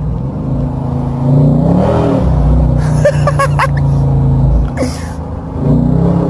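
The V8 engine of a 2018 Daytona accelerating hard in second gear. Its pitch climbs, holds steady at high revs, drops briefly about five seconds in and then rises again as it comes back on the throttle.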